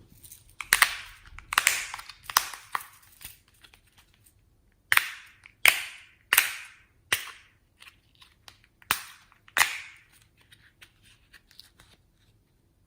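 Slime being squeezed and folded by hand, making about ten sharp, loud pops in uneven clusters as trapped air bursts out, with faint crackles in between.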